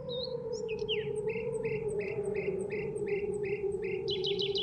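A bird chirping in an even series of short, repeated notes, breaking into a quick trill near the end, over a steady low drone.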